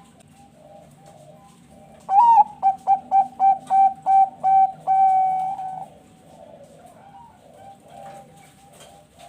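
Zebra dove (Thai-bred perkutut bangkok) singing one full song: a rising opening note, a quick run of about eight short coos, then a long held final coo. Fainter cooing from other doves goes on underneath throughout.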